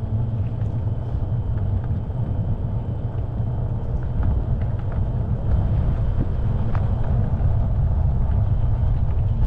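Steady low rumble of wind and road noise while riding a fat-tire electric bike along a street.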